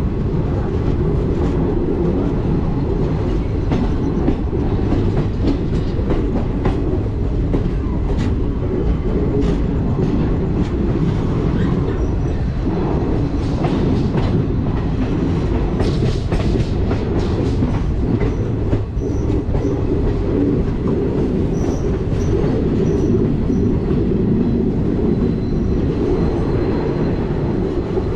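A passenger train running along the track, heard from on board: a steady rumble of wheels on rails with irregular clicks and knocks from the rail joints.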